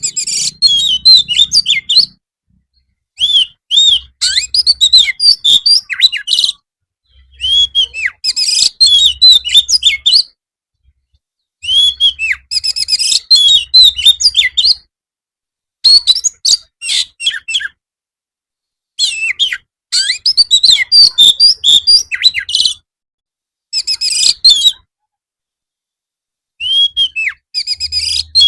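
Oriental magpie-robin (kacer) singing in the loud, rapid 'gacor' style used as a training recording: about eight bouts of fast whistled and sliding notes, each a few seconds long, divided by short spells of dead silence.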